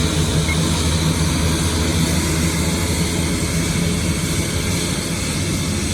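Jet airliner engines running steadily: a low hum under an even rushing noise that eases slightly near the end.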